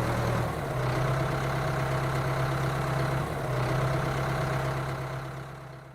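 Steady engine-like hum of a running motor, holding one low pitch, then fading away near the end.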